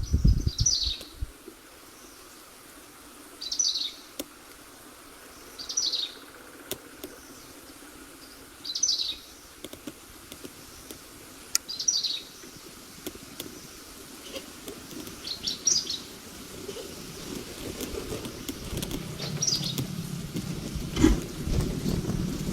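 A small bird calling with short, high chirps, repeated about every three seconds, seven times. Low rumbling noise comes in at the very start and builds again toward the end.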